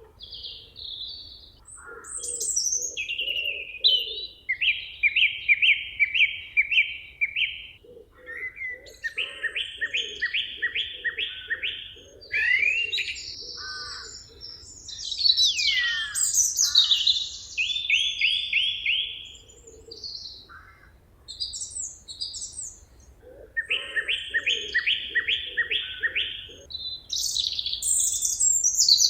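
Several songbirds singing in a forest. Phrases of quick, evenly spaced repeated notes keep coming back, mixed with higher chirps and trills, and one whistled note slides downward about two-thirds of the way through.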